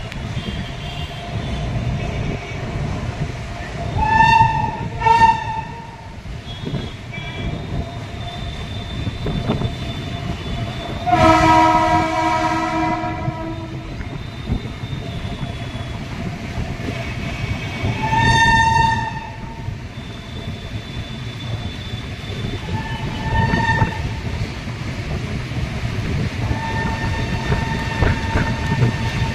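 Passenger train crossing a steel truss bridge: a steady rumble and clatter of wheels on the bridge. Over it come several horn blasts: two short ones a few seconds in, a long, deep horn of about two and a half seconds about eleven seconds in, and shorter, higher ones later.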